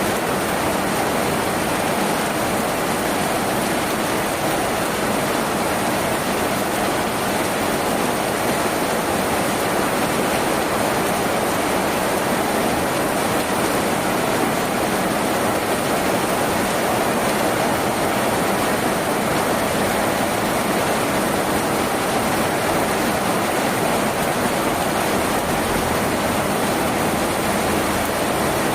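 Steady rain falling on a tin roof: a dense, even hiss at one unchanging level, fullest in the middle range, with no single drops standing out.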